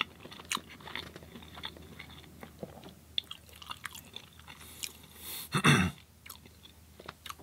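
Close-miked chewing: a person eating tots and samosas, with small crunches and mouth clicks and one louder, longer sound about five and a half seconds in.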